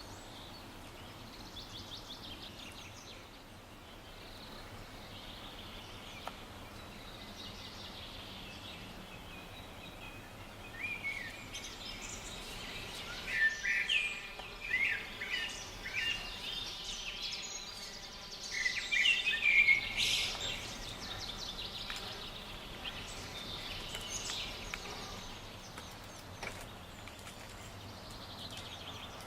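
Birds calling over a steady outdoor background, with a run of loud, short chirping calls in the middle and fainter birdsong before and after.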